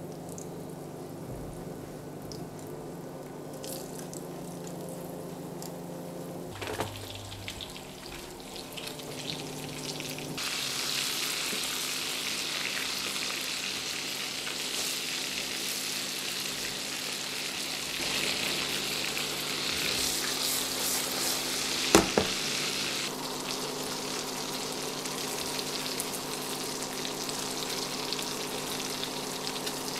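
Minced-meat patties coated in egg yolk sizzling as they shallow-fry in oil in a pan. The sizzle grows much louder about ten seconds in, when the pan is full of patties. A steady low hum runs underneath, and there are two sharp clinks, the louder one about two-thirds through.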